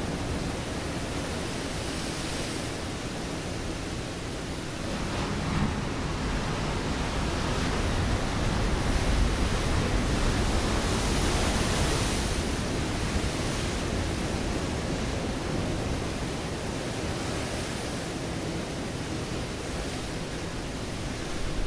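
Ocean waves breaking on a rocky shore: a continuous rushing wash that swells louder as a wave breaks about halfway through, then eases off.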